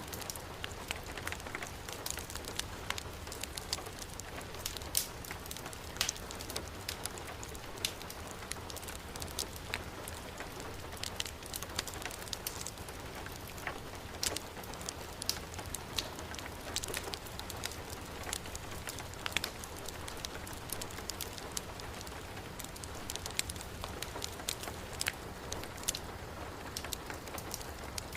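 Heavy rain falling steadily, mixed with a fireplace fire crackling, with frequent sharp pops throughout.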